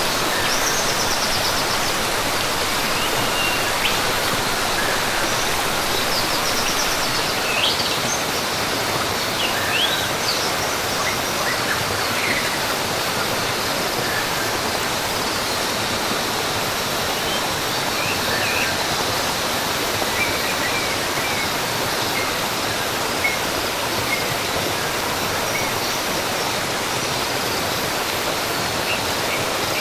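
Steady rush of a waterfall, with birds chirping over it, most often in the first half.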